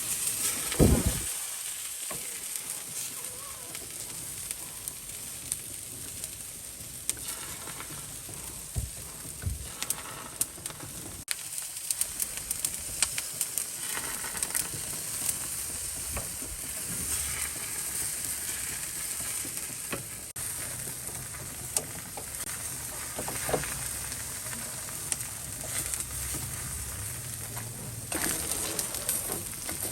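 Food sizzling steadily on a barbecue, with scattered clicks and knocks and one loud thump about a second in.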